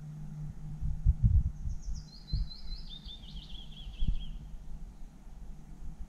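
A songbird sings one song of quick repeated notes that step down in pitch, lasting about three seconds. Under it are a low steady hum at the start and a few low thumps, the loudest about a second in.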